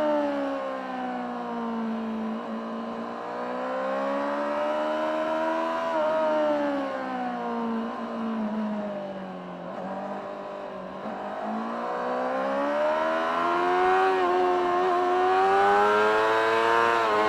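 Honda CBR600RR's inline-four engine through its stock exhaust, heard on board while riding. The revs drop off, climb, ease off again, then rise steadily through the last several seconds.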